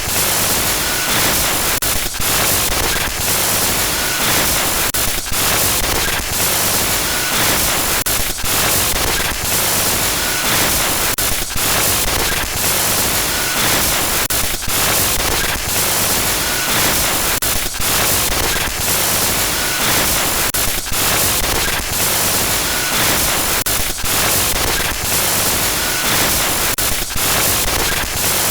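Loud glitch-effect static: a dense hiss across the whole range, cut by brief dropouts every second or so, with a faint short high blip about every two seconds.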